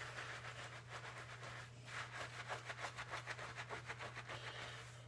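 Fingers scrubbing shampoo-lathered hair and scalp: a soft, hissy rubbing that turns into quick rhythmic scratching strokes, several a second, about two seconds in.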